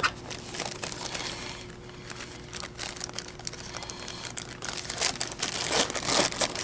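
Irregular crinkling and rustling of a vacuum cleaner's paper bag and filter being handled and fitted, growing busier near the end.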